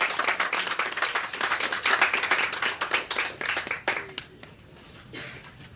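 Crowd applauding: a burst of many hands clapping that dies away about four seconds in.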